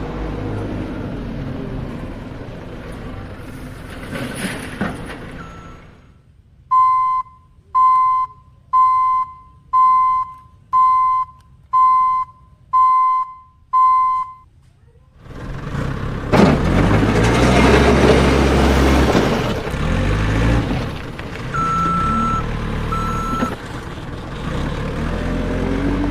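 Vehicle reversing alarm beeping eight times, about once a second, between stretches of steady engine-like running noise. A louder, rougher noisy stretch follows the beeps, then two shorter higher beeps.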